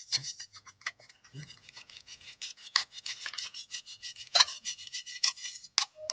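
Quick, irregular scraping strokes of a hand tool or abrasive rubbing on a part during engine disassembly, with a few sharper scrapes near the end.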